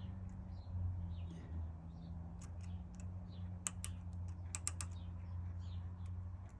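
A steady low electric hum from a workshop machine, with a quick cluster of small sharp clicks a little past halfway through and faint chirps in the background.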